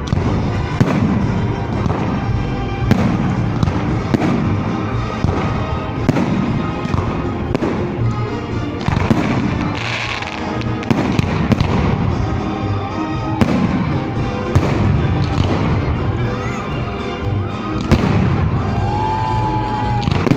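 Fireworks display bursting overhead: a continuous string of sharp bangs and crackles over a rumbling low boom, with music playing alongside.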